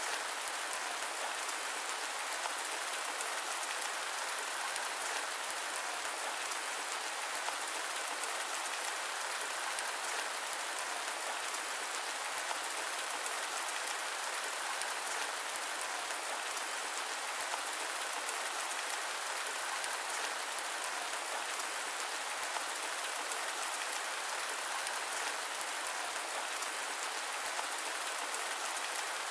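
Steady rain falling: an even, unbroken hiss with no rumble beneath it and no single sharp drops or cracks.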